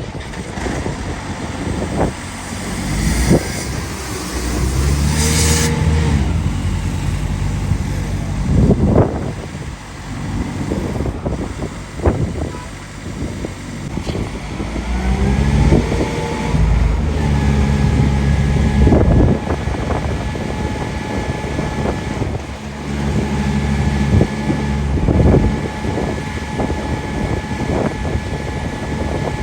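Heavy motor engines running and revving, their pitch swelling and falling several times, with a steady high tone held through the second half.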